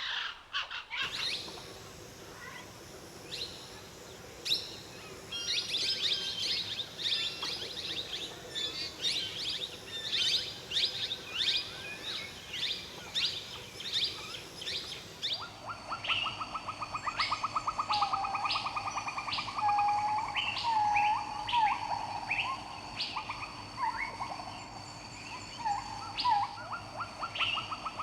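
Birds chirping and calling, many short high chirps in quick succession. About halfway through the sound changes to a different set of calls: a fast buzzy trill with short whistled notes over it.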